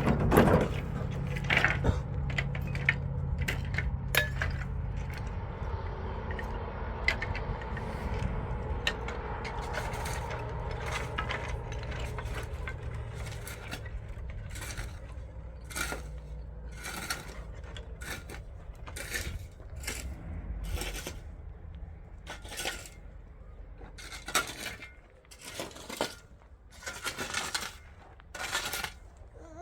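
A low steady motor hum fades away over the first half, while short clinks, knocks and scrapes, like hard objects striking one another, come irregularly and become the main sound in the second half.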